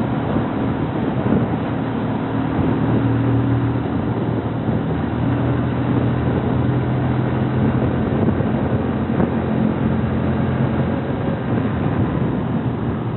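Kawasaki Rouser NS125 FI motorcycle's single-cylinder four-stroke engine running at steady cruising revs, with wind rushing over the helmet or bike-mounted microphone.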